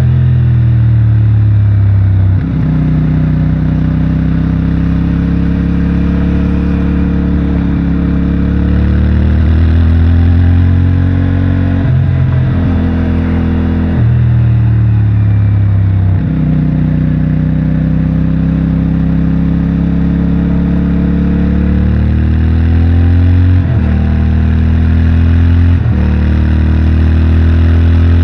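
CFMOTO 450MT's parallel-twin engine and stock exhaust under way, the pitch gliding up and down with road speed and stepping abruptly at several gear changes.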